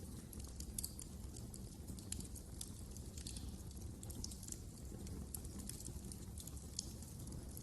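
Wood fire crackling in a fireplace: irregular sharp snaps and pops, several a second, over a low steady rumble of the burning fire.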